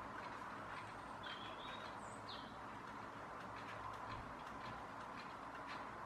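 Long-tailed tits giving a few short, high calls between about one and two and a half seconds in, over a steady background hum with faint scattered ticks.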